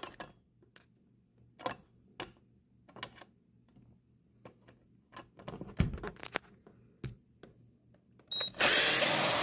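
Scattered light clicks and knocks of handling blind-mounting hardware, then near the end a cordless drill starts up and runs steadily for about a second and a half, taking out a screw from a blind mounting box.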